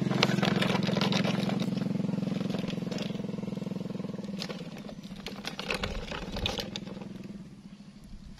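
A vehicle engine running steadily, fading away over several seconds, with scattered clicks and rattles.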